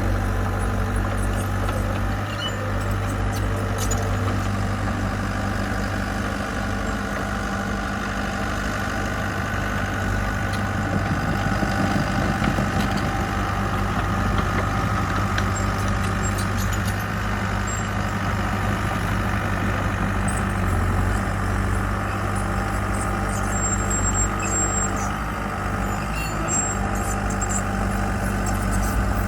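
Diesel engine of a heavy construction machine running steadily at an even speed.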